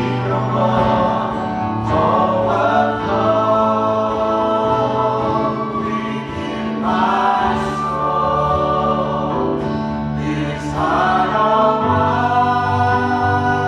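Gospel worship song: a choir of voices singing long held phrases over sustained accompaniment, the chords changing every few seconds.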